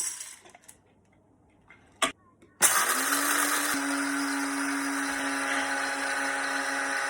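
A sharp click, then a Cuisinart electric coffee grinder's motor starts about two and a half seconds in and runs at a steady pitch, grinding a full load of coffee beans.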